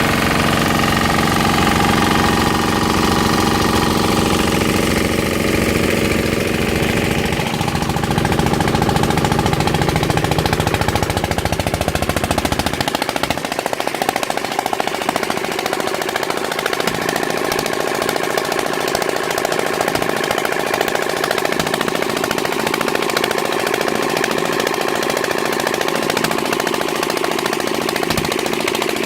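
Malkotsi 15 hp diesel engine running steadily with a fast rhythmic knocking. About 13 seconds in, its deep low rumble drops away abruptly while the knocking runs on.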